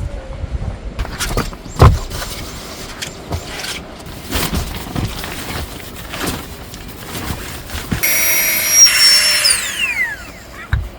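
Several knocks and clatters, then a small electric motor whirring steadily for about a second and a half before its pitch falls away as it spins down.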